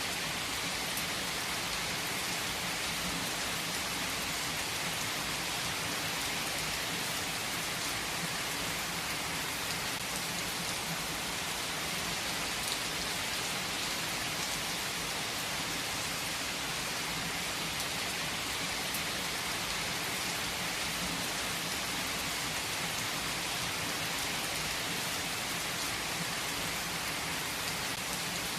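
Heavy rain falling steadily on surfaces, an even hiss of many drops with no let-up.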